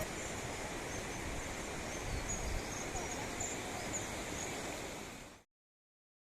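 Steady outdoor background noise with a few faint high chirps. It fades out about five seconds in and ends in silence.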